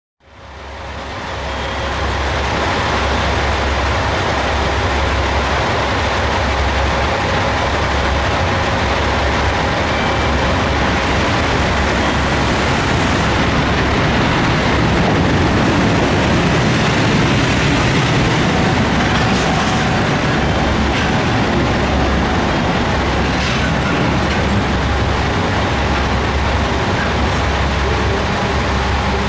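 Railway train at a station, a steady rumble with a pulsing low hum underneath, fading in at the start.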